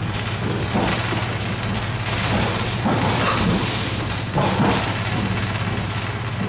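Inside a moving suburban electric train carriage: a steady low hum under irregular knocks, thumps and rattles of the car running over the track.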